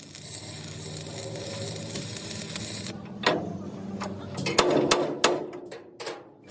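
Metalworking noise during truck-body fabrication: a steady hissing, humming noise for about three seconds, then a run of sharp metallic knocks and clanks.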